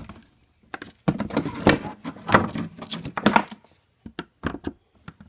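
Plastic clicks, knocks and rattles of a machine housing being worked apart by hand, while a stuck side piece is pried at: a busy run of clatter, then a few separate sharp clicks near the end.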